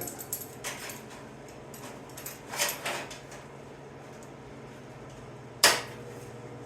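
Sheet-metal and tools being handled during patch-panel fabrication: a few soft scrapes and rattles, then one sharp metallic clank about five and a half seconds in that rings briefly, over a steady low hum.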